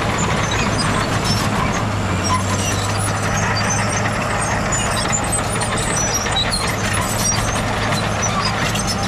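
Heavy diesel engine of earthmoving machinery running steadily at constant speed, with scattered light clicks and rattles over it.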